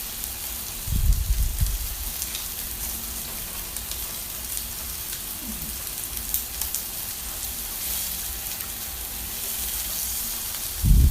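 Sliced pork belly sizzling steadily on a hot tabletop grill pan, not yet crisp, with a couple of low thumps about a second in and near the end.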